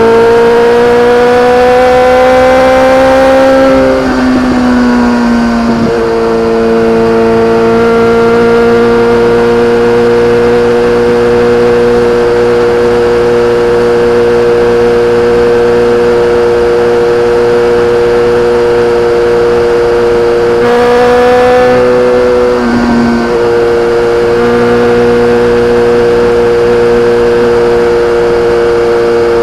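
BMW K1300R inline-four engine running through an Akrapovic exhaust. Its pitch climbs slowly for about four seconds, drops, then holds steady at a constant engine speed. About two-thirds of the way through there is a brief change in pitch before it settles steady again.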